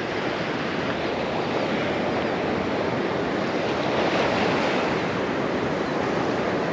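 Steady rush of breaking surf washing up the beach, with wind on the microphone.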